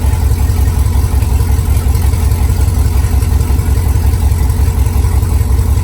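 Engine idling steadily: a loud, even, low rumble.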